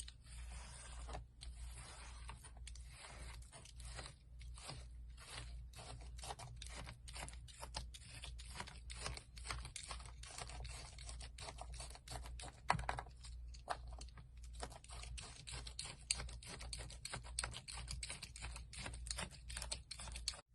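Slime being pressed and worked by hand, giving a quick, irregular run of small crackling clicks and pops.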